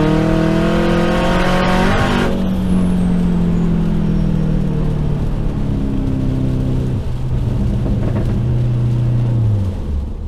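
Turbocharged Acura TSX's 2.4-litre four-cylinder engine, heard from inside the cabin, pulling hard with its pitch rising for about two seconds. The throttle then lifts and the engine note falls slowly and steadily as the car slows, dropping away near the end.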